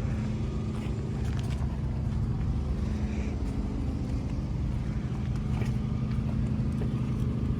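An engine running steadily at idle, an even low hum with no revving.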